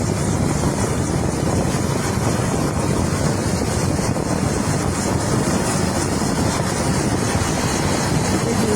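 Helicopter running, a steady, loud rushing noise of engine and rotor.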